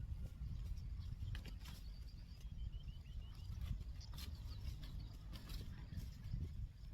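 Outdoor field ambience: a low rumble like wind on the microphone, with scattered clicks and rustles, and a bird giving a quick series of short chirps about two to three seconds in.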